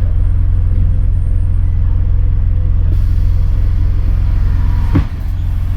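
Scania N230UD double-decker bus's diesel engine running loud and steady under way. About five seconds in there is a sharp knock, and the engine note drops briefly before picking up again.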